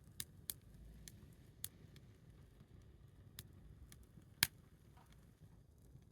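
Small wood fire crackling with a few sparse, sharp pops at irregular intervals, the loudest about four and a half seconds in, over a faint low rumble.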